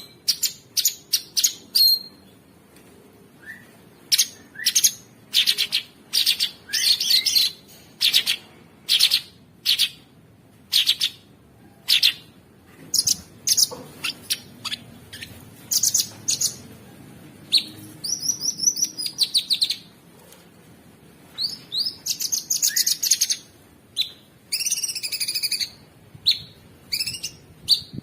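Cucak sungkok songbird singing in quick, sharp chirps and rapid trills, repeated phrase after phrase with short pauses between, in the rough, busy 'ngebren' style.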